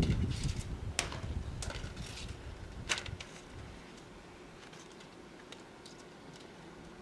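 Blizzard wind gusting against the microphone as a low rumble, easing off about four seconds in to a steady hiss, with scattered sharp clicks and ticks throughout.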